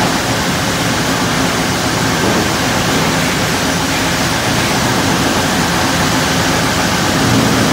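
Sawmill machinery running: a loud, steady mechanical din with a low hum underneath.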